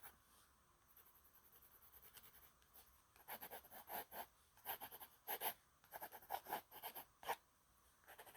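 Quick, faint strokes of a drawing tool scratching across sketchbook paper. The strokes come in rapid clusters, louder from about three seconds in.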